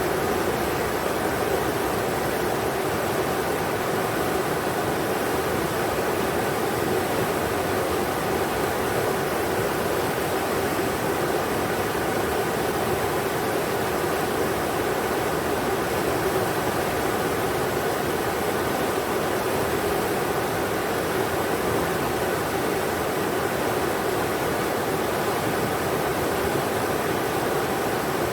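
Englishman River rushing steadily over rocks: an even, unbroken roar of flowing water.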